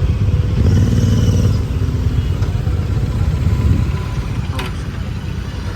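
Motorcycle engines running on the move, a low rumble that is strongest in the first second or two and eases off about four seconds in, with a brief knock shortly after.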